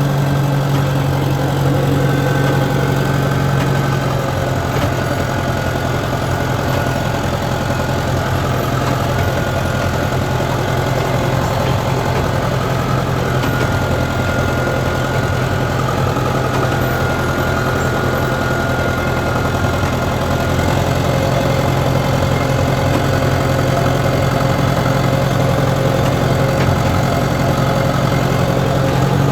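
Compact track loader's diesel engine running at a steady speed, with a thin whine over the engine hum.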